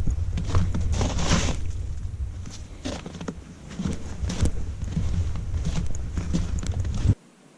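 Footsteps crunching along at an uneven pace, over a heavy low rumble of wind on the microphone. Both cut off abruptly about seven seconds in.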